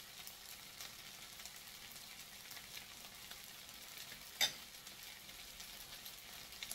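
Fried rice faintly sizzling in a stainless steel pan on a hob, with small pops throughout. A single sharp click or knock about four seconds in.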